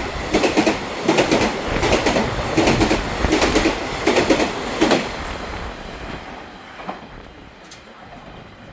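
EMU500 electric multiple unit's wheels running over the rail joints, a rapid clickety-clack of loud knocks from the fishplated joints over a steady rumble, dying away about five seconds in as the train leaves.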